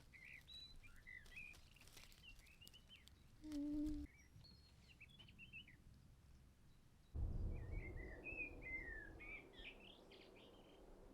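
Wild birds chirping and singing softly. A brief low hum comes about three and a half seconds in, and about seven seconds in a low rumble of wind or handling noise starts suddenly under the birdsong.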